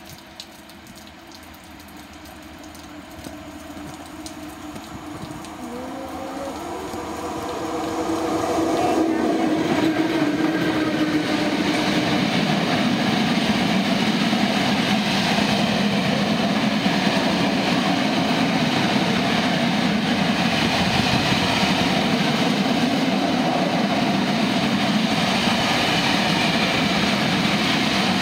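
Freight train approaching and passing close by at speed: the sound grows steadily over the first eight seconds or so as the locomotive comes in, then a long run of high-sided open freight wagons rolls past with a steady, loud rumble of wheels on rail.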